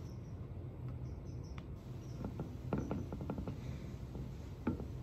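Close-up chewing and mouth sounds: a run of small, quick clicks and smacks a couple of seconds in, with a few more near the end.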